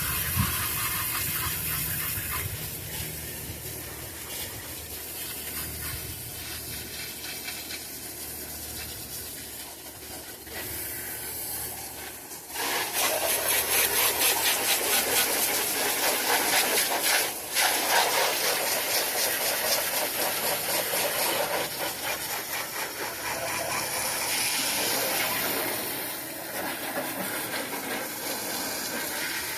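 Liquid spray hissing against a truck engine during a degreasing clean, growing louder and pulsing evenly from about twelve seconds in.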